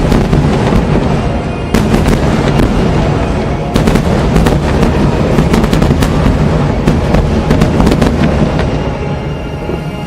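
Aerial fireworks bursting over music: sharp bangs about two and four seconds in, then a dense run of reports and crackle that thins out near the end.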